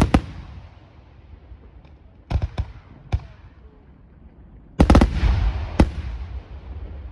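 Aerial firework shells bursting with sharp bangs in clusters: a pair at the start, a group of about four around two and a half seconds in, and a heavier cluster about five seconds in, each followed by a rolling echo.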